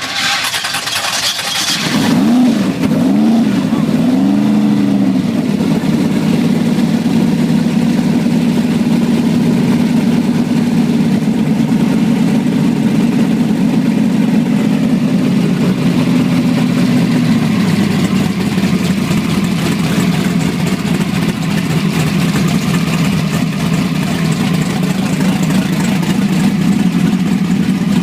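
Drag car engine starting up about two seconds in. It is blipped a few times, then settles into a loud, steady idle that drops a little in pitch partway through.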